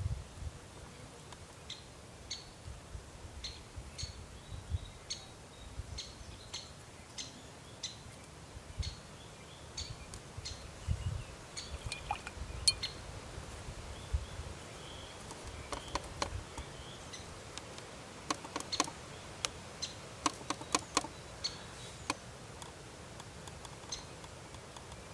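A small bird chirping over and over, short high chirps about twice a second, giving way after about twelve seconds to scattered sharp clicks and ticks.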